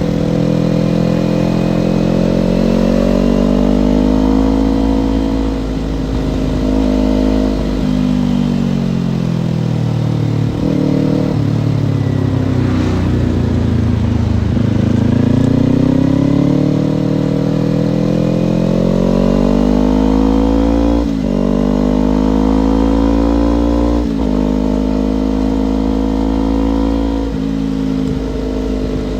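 Kawasaki Ninja parallel-twin motorcycle engine under way. Its pitch falls as the bike slows in the middle, then climbs as it accelerates, dropping sharply at three quick upshifts near the end. A low wind rumble runs underneath.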